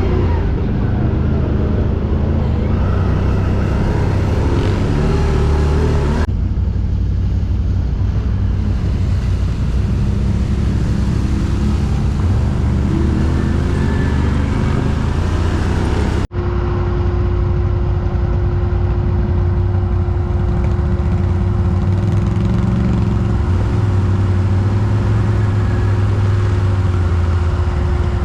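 ATV (quad bike) engines running and revving unevenly at low speed. The sound changes abruptly twice, about six and sixteen seconds in, and after the second change a steady hum joins the engine noise.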